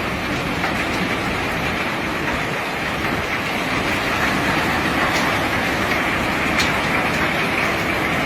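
Steady rumbling noise of rock cargo being unloaded by heavy machinery, with faint scattered clicks.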